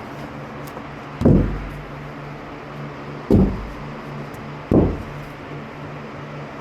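Three loud, low thumps, about two seconds and then a second and a half apart, each dying away quickly, over a steady low hum.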